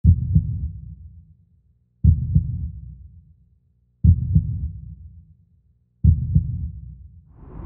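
Slow, deep double thumps like a heartbeat, four of them about two seconds apart, each fading out over a second or so. Near the end a rising whoosh swells in.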